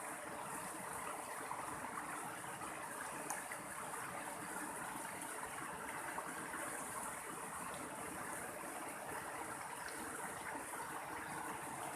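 Mountain stream running steadily over rocks, a continuous rushing and splashing of water.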